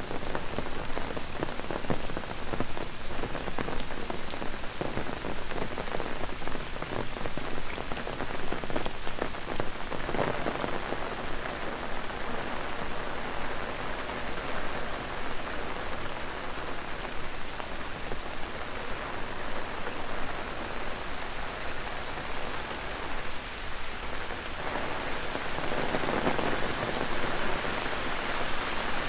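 Heavy rain pattering on an umbrella overhead as a dense, steady patter that swells a couple of times. A continuous high-pitched cicada drone runs underneath.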